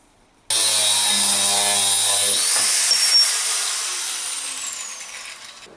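Power cutting tool cutting through a 16 mm square steel bar. It starts about half a second in and runs loud and steady. About two and a half seconds in the motor is switched off, and it spins down with a falling whine.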